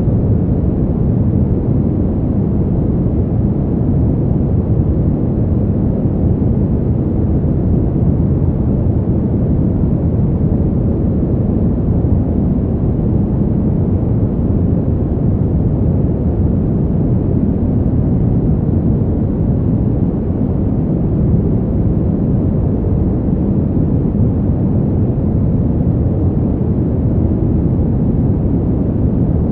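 Steady, low-pitched wind noise, loud and even, with no gusts, breaks or other sounds.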